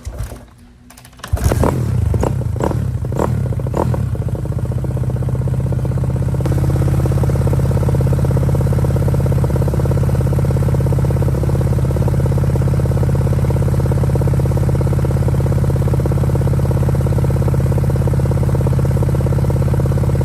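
Kawasaki 250 dirt bike engine starting: a few sharp knocks, then it catches about a second and a half in, runs unevenly for a few seconds and settles into a steady, loud idle.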